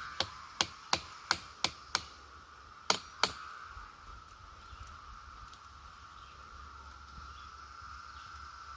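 Chorus of periodical cicadas: a steady, even drone. Over it, for the first three seconds or so, comes a run of about eight sharp clicks, roughly three a second.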